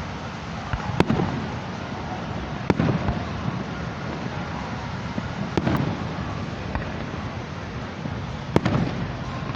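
Aerial fireworks shells bursting: four sharp bangs a couple of seconds apart, each followed by a low rolling rumble.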